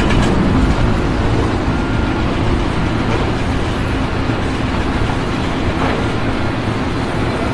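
A large engine running loudly and steadily, a low rumble under a dense wash of noise.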